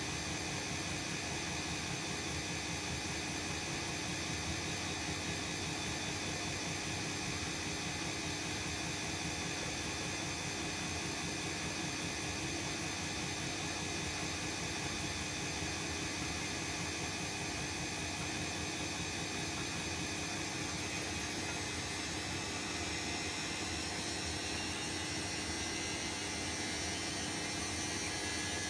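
Bosch WAE24162GB03 washing machine spinning: a steady motor hum and whine over a rushing noise. About two-thirds of the way through, the whine starts to climb in pitch as the drum picks up speed.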